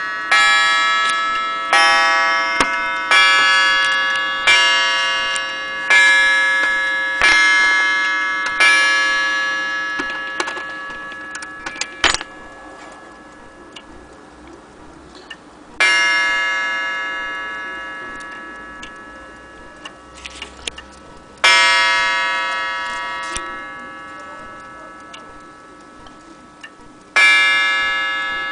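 French platform-escapement mantle clock striking seven times, about one and a half seconds apart, each ringing blow dying away slowly. It then strikes three more single blows about six seconds apart, with the escapement ticking faintly between them.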